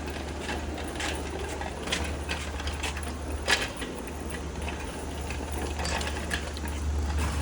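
Irregular metallic clicks and rattles of shop equipment being handled and set in place, with one sharper knock about three and a half seconds in, over a steady low hum.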